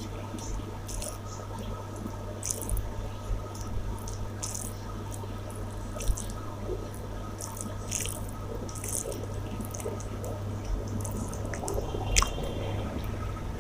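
Wet chewing and mouth sounds of a person eating rice and curry: many short, sharp smacks and squelches, with a sharper click near the end, over a steady low hum.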